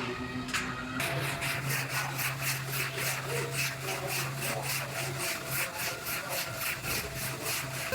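Hand sanding: sandpaper rubbed back and forth over the repaired truck bodywork in even strokes, about four a second, starting about a second in.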